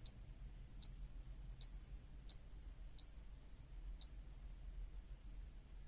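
Faint, sharp, high-pitched ticks, six of them at uneven intervals of under a second, over a faint low steady hum.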